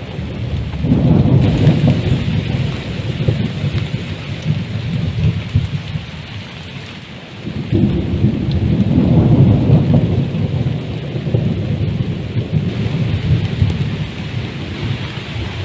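Heavy rain falling steadily, with two long rolls of thunder: one about a second in and a louder one starting about eight seconds in.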